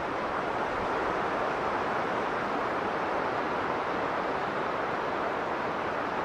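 Blizzard ambience: strong wind blowing steadily, an even rushing noise without gusts or breaks.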